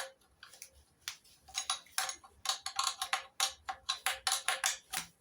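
Metal ratchet spanner clicking as it undoes the carburettor mounting nuts on an MGB engine: a sharp click at the start, a few scattered clicks, then rapid ratcheting at several clicks a second from about a second and a half in.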